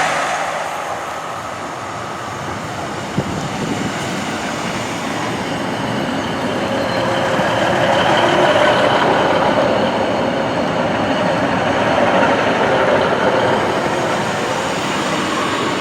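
A diesel train running along the line, a steady rumble of engine and wheels on rail that grows louder towards the middle and eases off again.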